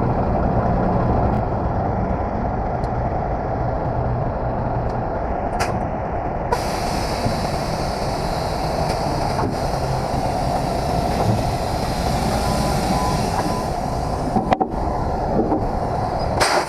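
Heavy truck's diesel engine running steadily. A steady hiss joins it about six and a half seconds in, and a few light clicks come near the end.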